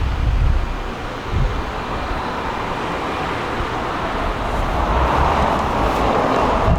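Wind buffeting the microphone in low, irregular rumbles over a steady outdoor rush, which swells about five seconds in.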